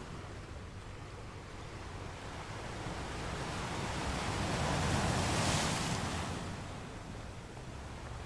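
Ocean waves washing onto a sandy beach: a wave swells and breaks about five seconds in, then the wash fades back down.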